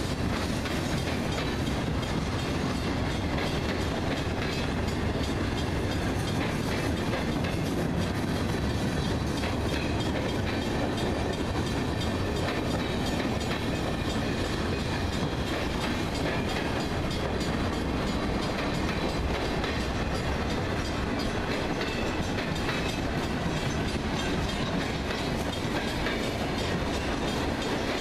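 A CSX freight train's cars rolling steadily past close by: a continuous noise of wheels on the rails, with repeated clicks of the wheels passing over rail joints.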